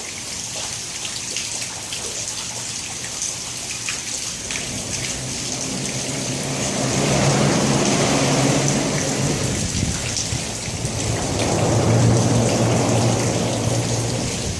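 Heavy rain falling steadily, with a low rumble that swells up about halfway through, eases briefly and swells again near the end.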